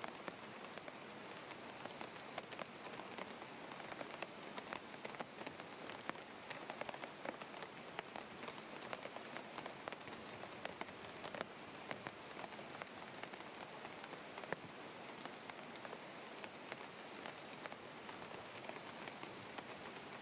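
Steady patter of rain: an even hiss dotted with many small drop ticks.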